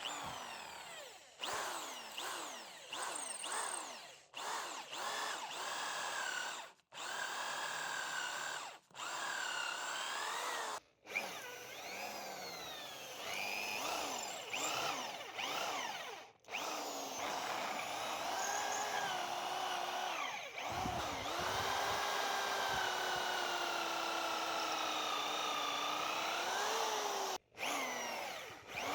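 Handheld electric power tool running in bursts, its motor pitch rising and falling as it bears on the work, broken by several abrupt short gaps.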